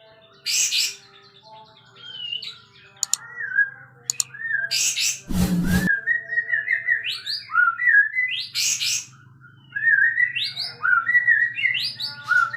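Kapas tembak songbird singing loudly: rapid runs of short, rising, whistled chirps, broken every few seconds by harsh rasping bursts, with a dull thump about halfway through.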